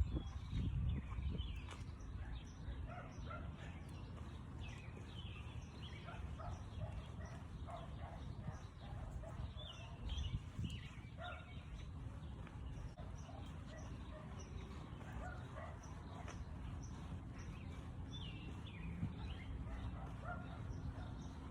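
Scattered short chirping animal calls throughout, over a low steady rumble.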